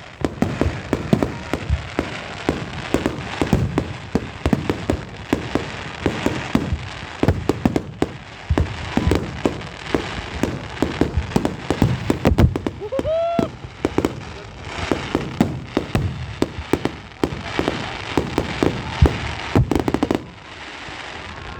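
Fireworks display: a dense, continuous barrage of bangs and crackles, easing off shortly before the end.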